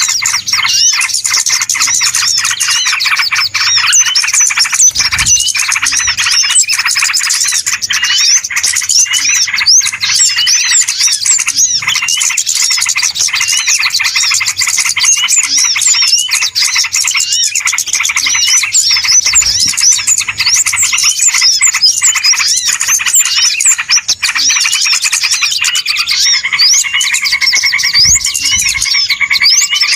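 A noisy chorus of many small birds chirping and twittering rapidly without a break, the kind of bird-lure (pikat) recording played to draw small birds in. Near the end a lower, rapid buzzing trill joins in.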